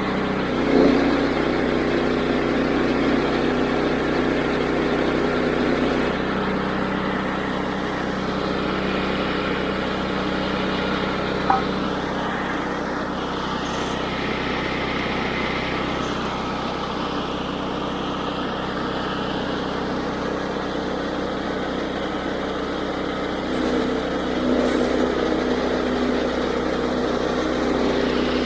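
Woodland Mills HM122 band sawmill's 9.5 hp engine running steadily as the band blade cuts through a walnut log. A single brief click sounds a little before the middle.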